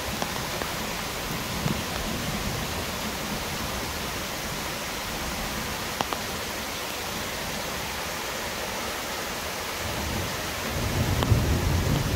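Steady rush of a mountain waterfall, with rain falling. A low rumble swells near the end.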